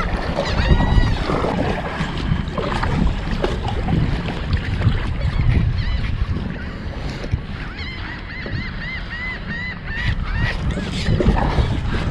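Birds calling in strings of short, rising-and-falling notes, thickest a little past the middle, over wind buffeting the microphone.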